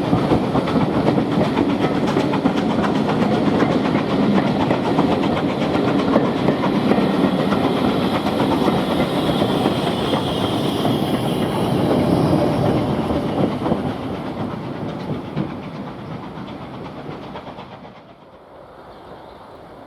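A train passing, its wheels clattering over the rail joints; the sound fades away over the last few seconds.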